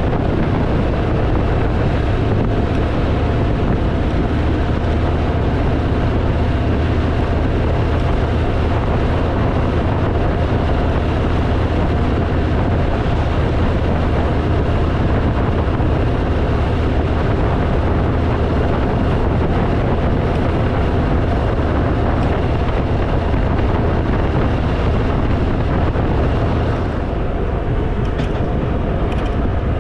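Harley-Davidson motorcycle running at a steady cruise, its engine hum under heavy wind rushing over the rider's microphone, easing off slightly near the end.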